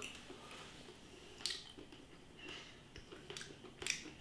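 Faint mouth sounds of a man chewing a mouthful of chicken pie, with a few short wet clicks, one about a second and a half in and two near the end.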